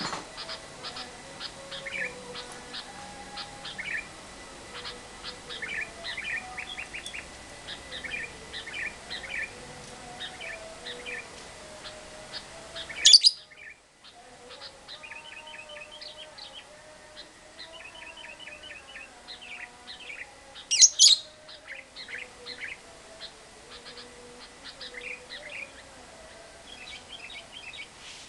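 Lovebird chattering in the long 'ngekek' style: a steady stream of short, high chirps, with two loud shrill calls, about halfway through and again about three quarters in. The sound drops out briefly just after the first loud call.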